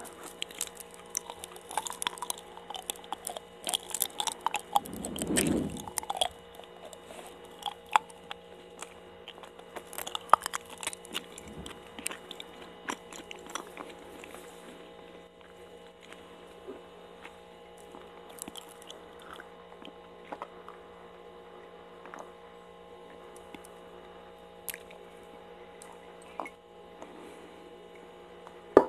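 Close-miked wet chewing and mouth smacks of someone eating chewy daifuku mochi (sweet rice cake): busy for the first half, then sparser. A single sharp knock near the end as a ceramic coffee mug is taken up.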